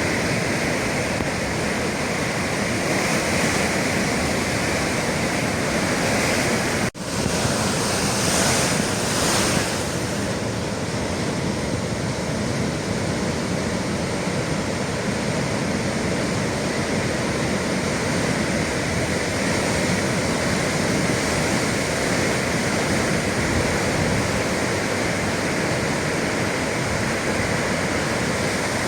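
Ocean surf breaking steadily, with wind buffeting the microphone; the sound drops out for a split second about seven seconds in, then swells briefly.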